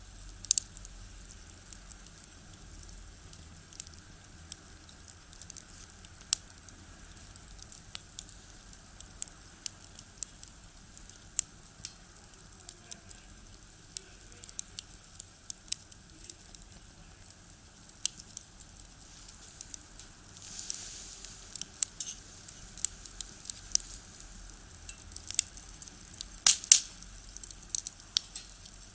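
Firewood crackling and popping as it burns in a small box stove: irregular sharp snaps over a faint hiss, with a cluster of louder pops near the end.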